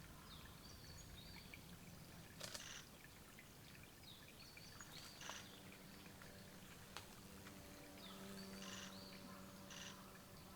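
Quiet forest ambience with faint, short, high-pitched calls of small wild birds, heard several times, and a few soft ticks.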